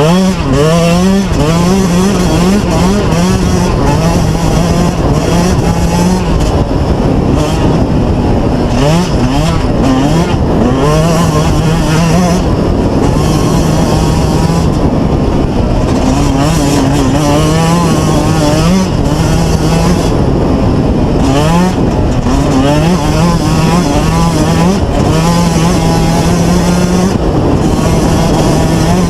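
Dirt bike engine running under way, its pitch rising and falling repeatedly as the throttle is opened and eased off.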